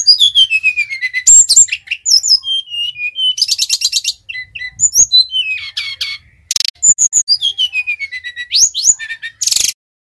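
Sikatan rimba dada coklat (SRDC, Bali type) singing: clear whistles that slide down in pitch, alternating with bursts of very fast trilled notes. The song stops shortly before the end.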